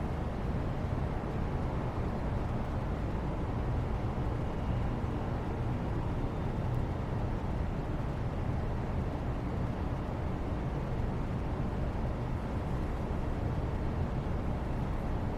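Steady background noise, heaviest in the low end, even throughout with no separate sounds in it.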